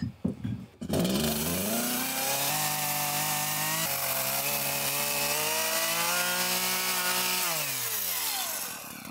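Chainsaw revving up about a second in and held at high speed while cutting wood, then dropping back down to idle near the end.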